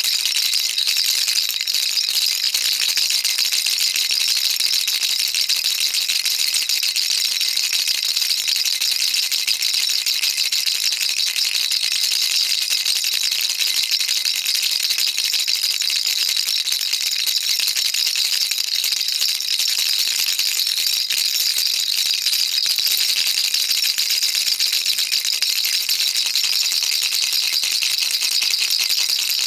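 Baby rattle shaken without a break, giving a steady, dense, high-pitched rattle.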